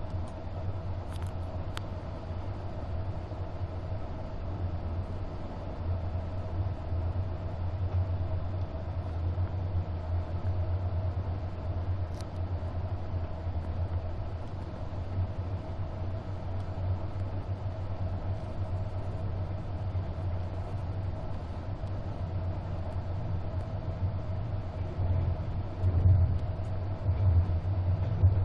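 Running noise inside a passenger coach of the EC 46 Berlin–Warszawa Express in motion: a steady low rumble of wheels on rail with a faint steady hum over it. It grows louder for a few seconds near the end.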